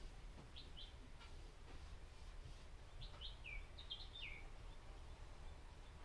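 Faint chirps of a small bird: short, high falling notes, a pair about half a second in and a quicker run from about three to four and a half seconds in, over a low steady hum.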